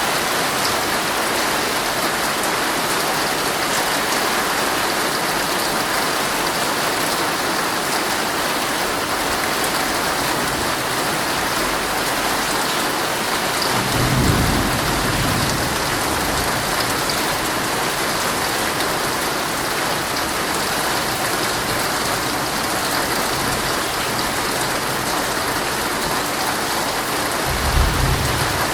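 Heavy rain drumming steadily on a tent. Twice, about halfway through and near the end, a brief low rumble swells under the rain.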